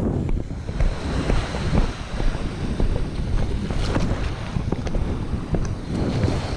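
Wind buffeting the microphone in a steady low rumble over open water, with many small sharp splashes and slaps of water against the sailing kayak's hull.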